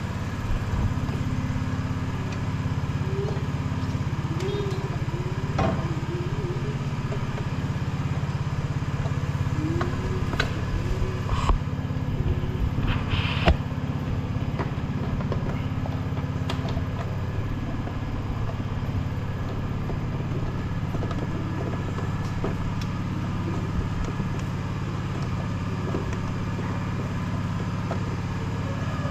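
An engine running steadily at idle, with a few sharp metallic knocks over it, the loudest about 13 seconds in.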